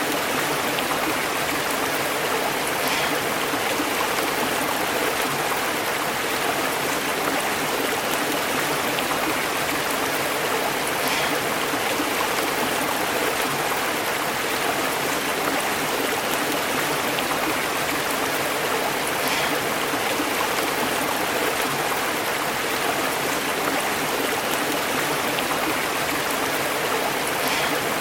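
Stream water burbling and bubbling over rocks, a steady, even rush.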